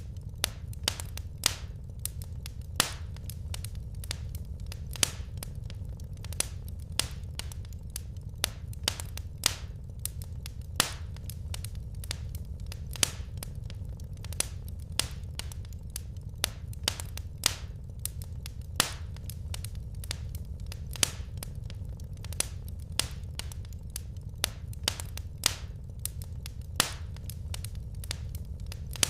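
Wood fire crackling in a fireplace: frequent, irregular sharp pops and snaps, several a second, over a steady low rumble.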